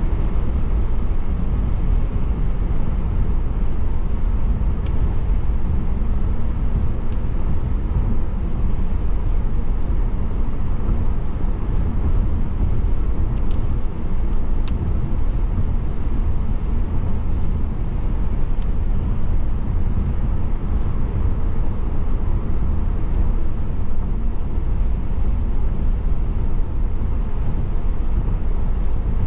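Steady road and engine noise of a car driving, heard from a dashcam inside the car, with a few faint ticks now and then.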